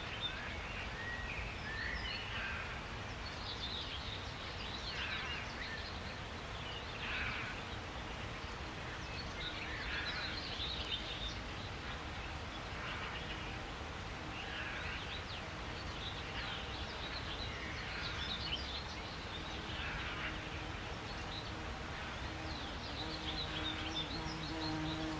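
Several small birds chirping and twittering in short bursts every second or two, over a steady low rumble of outdoor background noise. A faint low hum comes in near the end.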